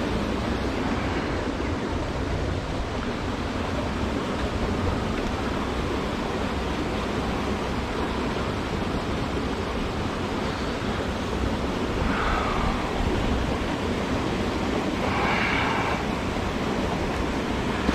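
Steady rushing of a flowing creek, with wind rumbling on the microphone.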